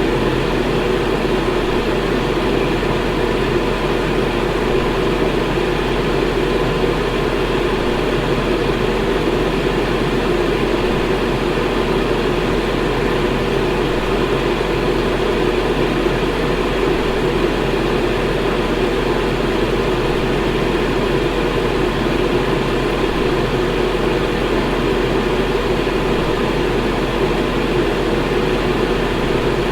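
Electric fan running steadily: an even rush of air with a low hum underneath, unchanging throughout.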